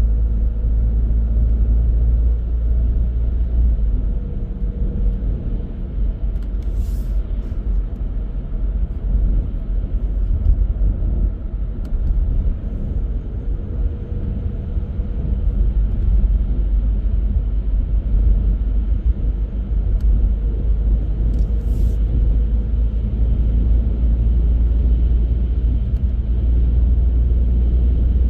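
Car driving along the road: a steady low rumble of engine and tyre noise, with two brief clicks, about seven seconds in and again near twenty-two seconds.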